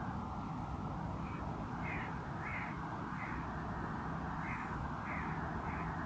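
A bird giving a run of about seven short calls, mostly a little over half a second apart with a pause near the middle, over a steady rush of background noise.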